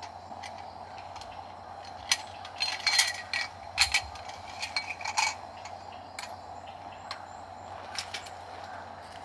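Metal cookware and utensils clicking and clinking, several times in quick succession in the middle, a few strikes ringing briefly. A steady background hiss runs underneath.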